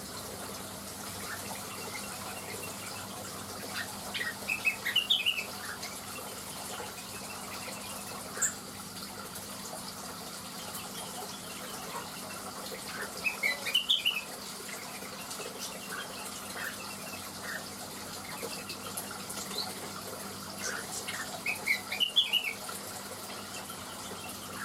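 Cucak wilis (greater green leafbird) singing: three short bursts of rapid, twittering high notes spaced several seconds apart, with scattered single chirps between, over a steady rushing background.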